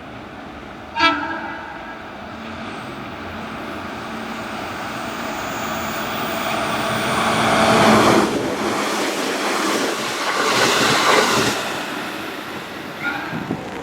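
A train's short horn blast about a second in, then the noise of the train running along the platform, building to its loudest about two-thirds of the way through and fading, with a brief squeal near the end.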